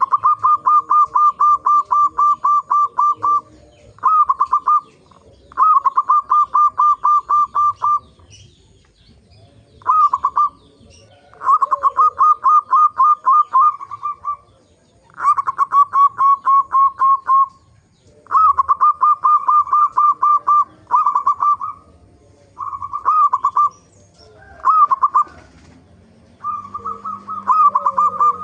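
Zebra dove (perkutut) calling: rapid runs of short staccato cooing notes, about ten a second, in bursts of one to three seconds with brief pauses between.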